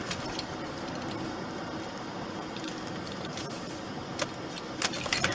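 Steady road and engine noise inside a moving car's cabin, with a few faint clicks near the start and in the last second.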